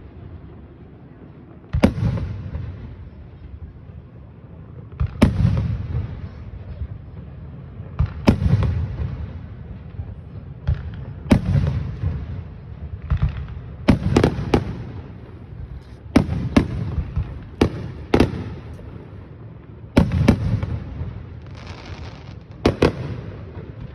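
Aerial fireworks going off: about ten sharp booms at intervals of two to three seconds, some in quick doubles, each followed by a low rolling echo.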